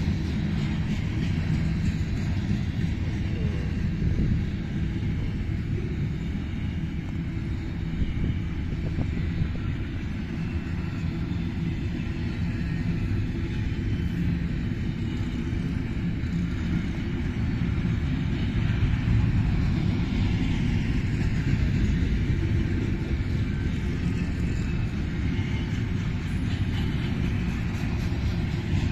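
Ferromex freight train rolling past, a steady low rumble of the cars on the rails that holds unbroken for the whole stretch.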